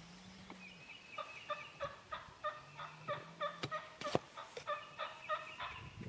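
Wild turkey yelps: a run of short, evenly spaced notes at about three a second. A sharp click comes about four seconds in.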